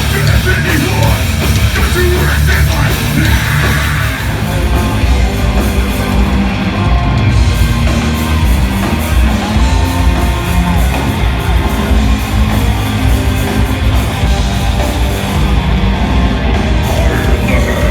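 A live heavy metal band playing loud and without a break, with heavy drums and guitars.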